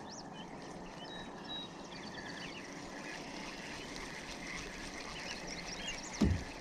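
Small birds calling in faint short chirps and trilled notes over a steady outdoor hiss. A single low thump comes about six seconds in.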